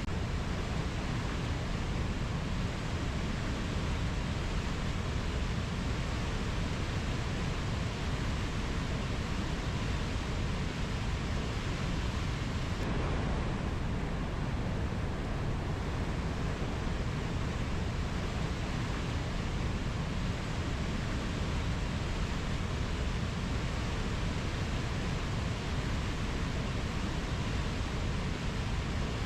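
Rainforest ambience recording: a steady, even hiss of noise with no distinct calls or knocks. Its tone shifts slightly about thirteen seconds in.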